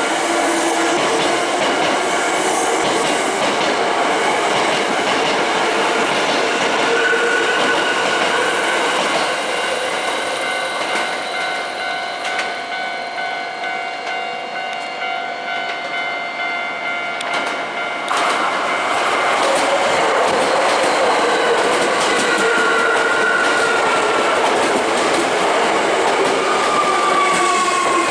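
Hankyu Senri Line electric train running past at a level crossing, wheels clicking over the rail joints under steady whining tones from its motors. The noise eases off for a few seconds in the middle and comes back suddenly about two thirds of the way through, and a falling whine sounds near the end.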